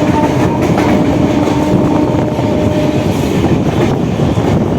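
Suburban electric local train running fast, heard on board: steady wheel and rail noise with clickety-clack over rail joints, and a steady hum that fades out about three seconds in.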